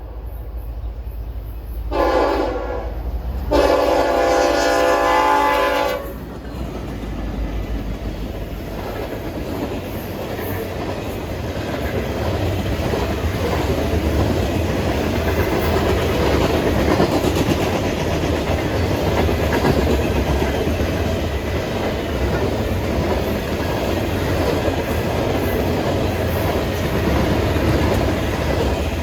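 Freight locomotive's multi-tone air horn sounding a short blast and then a longer one, the close of a grade-crossing horn signal. The train then passes close by, its wheels clattering steadily over the rails.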